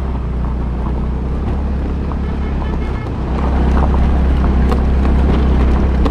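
A vehicle engine running steadily under heavy wind rush on the microphone while travelling along a road; it gets louder about halfway through.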